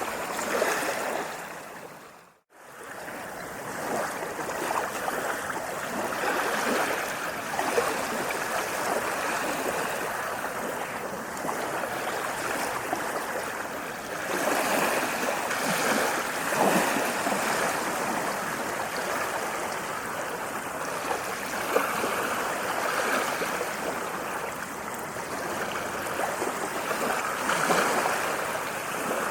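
Water washing and splashing on and on, swelling gently every several seconds like small waves lapping at a shore. About two seconds in it fades almost to silence for a moment, then comes back.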